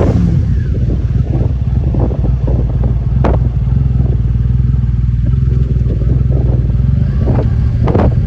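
Motorcycle engine running steadily at a low, even pitch while riding downhill. There are a few sharp pops, one about three seconds in and a couple near the end.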